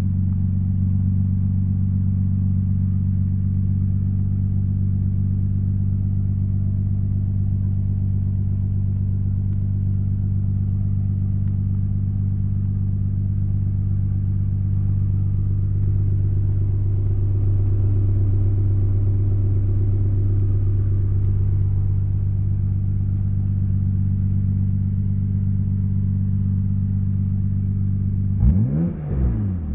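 Nissan Skyline GT-R's RB26DETT twin-turbo straight-six, fitted with an aftermarket muffler, idling steadily as heard from inside the cabin. Near the end the throttle is blipped and the revs rise and fall quickly.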